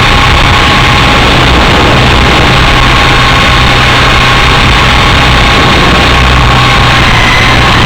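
Helicopter running steadily: a constant rotor and motor noise with a steady high whine.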